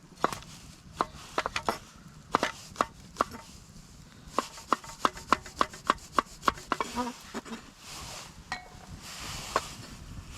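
Knife chopping on a cutting board: a few scattered cuts, then a steady run of about three strokes a second.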